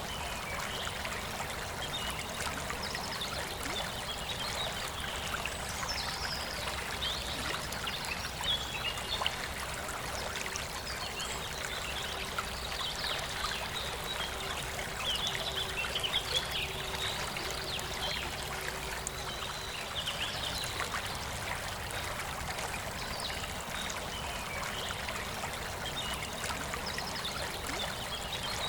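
Forest river flowing steadily, with birds chirping in short calls above the rush of water.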